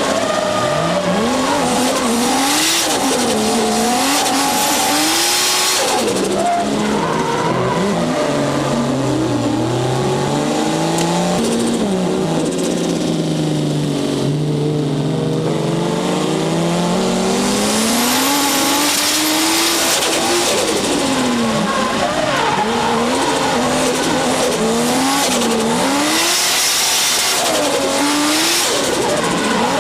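Turbocharged Toyota 1JZ straight-six with a Trust T67-25G turbo, revved hard while drifting, its pitch swinging quickly up and down, with tyres squealing. In the middle the revs sink into a long slow dip and then climb again.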